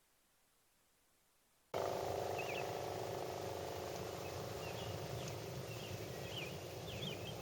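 Outdoor ambience that cuts in about two seconds in: a steady hum under many short, quick chirps from small wild animals.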